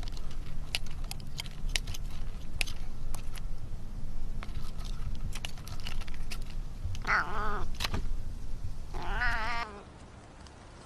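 A cat meowing twice, long wavering calls, the second one near the end, after a stretch of scattered light clicks and knocks.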